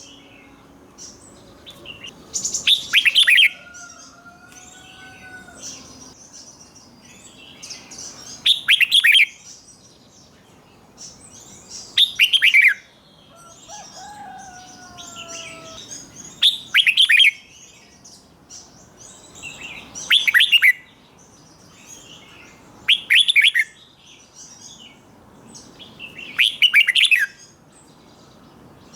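Red-whiskered bulbul singing: seven loud, quick phrases of notes a few seconds apart, with softer chirping between them.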